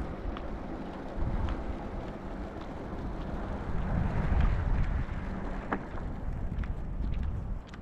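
Wind buffeting the microphone outdoors on a frozen lake: an uneven, gusting rumble with a few faint clicks scattered through it.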